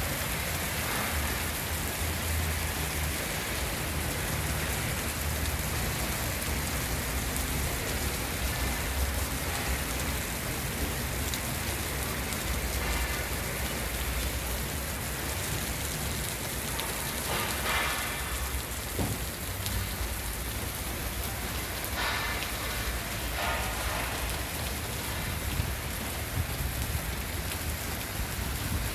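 Heavy rain pouring steadily, with a continuous low rumble underneath and a few brief swells in the downpour's sound.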